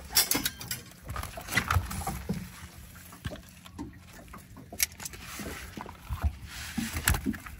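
Irregular knocks, taps and rustling from handling, a few knocks sharp and loud.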